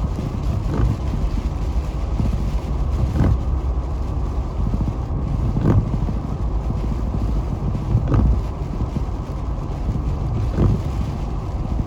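Steady road and engine rumble heard from inside a car driving on a snow-covered interstate. A short, sharp sound repeats evenly about every two and a half seconds, five times.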